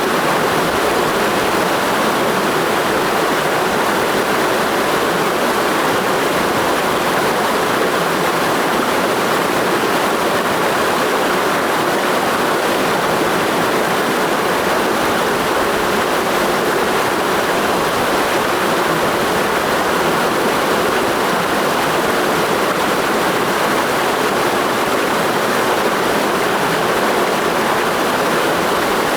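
Mountain stream rushing over rocks in a steady, unbroken flow.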